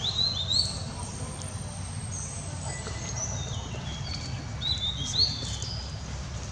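Birds chirping: short high rising chirps, mostly in quick pairs, near the start and again about five seconds in, with fainter high whistled notes between, over a low steady rumble.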